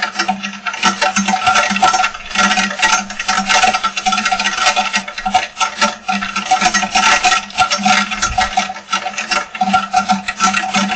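Rain falling hard, a dense irregular patter of drops striking a surface, with a steady hum running underneath.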